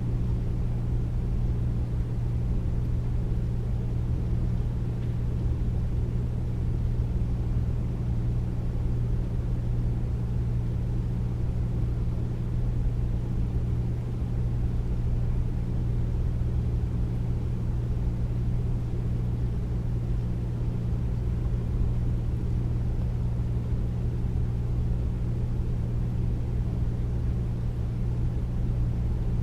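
Air conditioner running steadily, a deep, even hum with a low whooshing rush of air that does not change.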